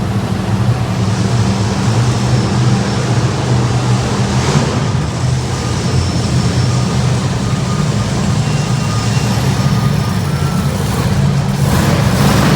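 Monster truck engine idling steadily with a low, even note, swelling briefly louder about four seconds in and again near the end.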